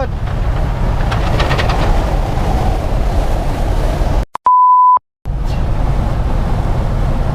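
Steady low rumble of road and wind noise inside a semi truck's cab. About four seconds in, the sound cuts out for about a second, and a single steady beep of a censor bleep plays for about half a second before the rumble returns.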